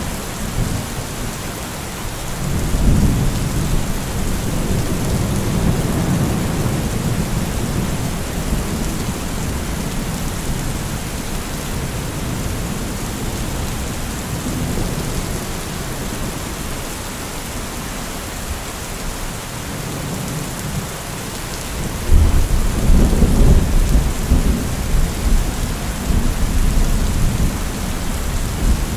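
Heavy rain falling steadily, with thunder rumbling low through it. A louder clap of thunder breaks in suddenly near the end and goes on rumbling.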